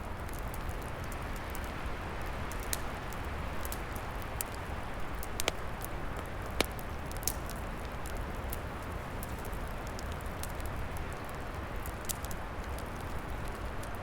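Wood fire burning with irregular crackles and sharp pops, a few louder pops about five to seven seconds in, over a steady rush of wind in the trees.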